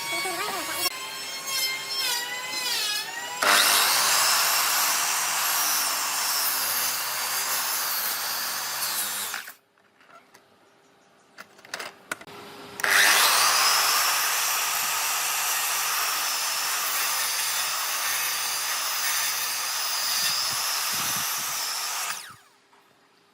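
An electric power tool cutting or working wood, running in two long stretches with a short quiet pause between them. The second stretch starts with the tool spinning up. Wavering, gliding whines come before the first stretch.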